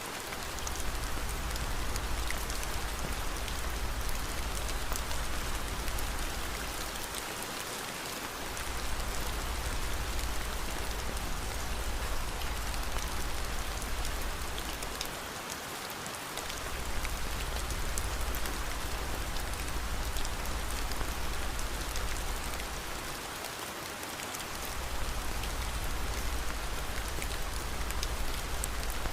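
Steady rain hiss mixed with faint fine crackles, over a low rumble that drops out briefly about every eight seconds.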